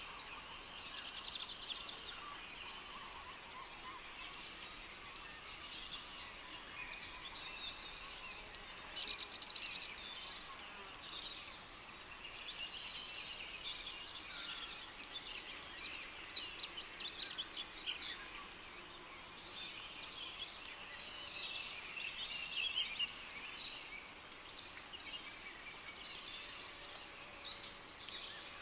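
Tropical rainforest ambience: a cricket chirping in a steady, high trill of about three pulses a second, breaking off briefly twice, with several birds calling over it.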